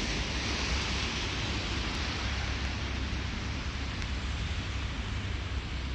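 Steady rain falling, an even hiss with a few faint drop ticks, over a low steady rumble.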